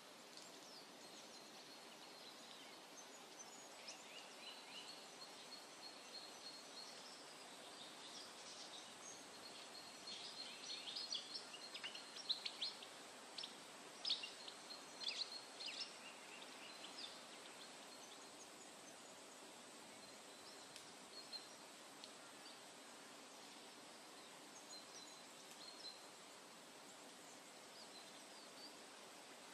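Wild birds chirping and calling, with a busy flurry of quick chirps around the middle, over a faint steady hiss of background ambience.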